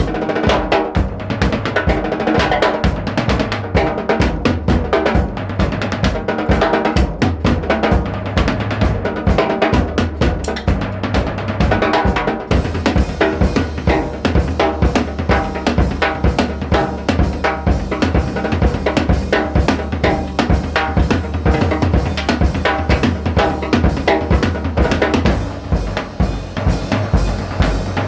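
Music driven by a drum kit playing a steady beat, with bass drum and snare prominent over a pitched bass line; about twelve seconds in, a brighter cymbal wash joins.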